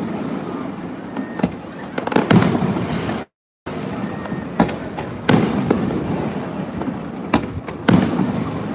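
Fireworks display: sharp bangs of aerial shells going off every second or so over a continuous rumble of other bursts. The sound cuts out completely for a moment a little over three seconds in.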